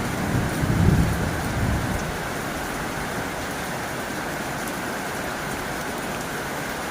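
Heavy rain falling steadily on a tin roof, an even hiss and patter. A low rumble under it dies away about two seconds in.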